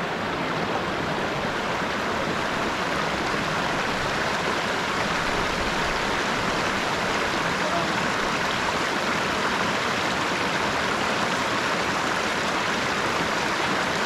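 River water flowing, a steady, unbroken rush that does not change.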